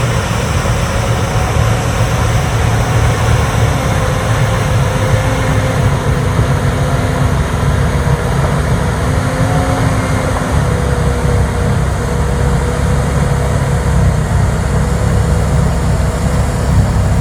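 Larue D60 snow blower working a windrow: heavy diesel engine running steadily under load, with a steady whine that wavers slightly in pitch.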